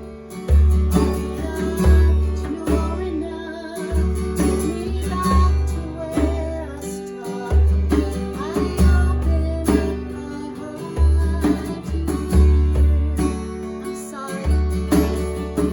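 Worship band music: acoustic guitar over a deep, pulsing bass, with a voice holding long wavering notes but no clear words.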